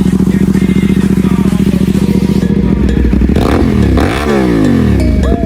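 Motorcycle engine of roughly 300 to 450 cc idling with a steady exhaust pulse. About three seconds in, the throttle is blipped and the revs rise and fall quickly before it settles back to idle.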